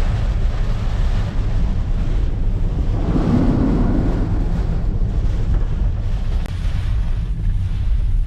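Typhoon wind and rain, the wind buffeting the microphone as a steady heavy rumble; a gust swells about three seconds in.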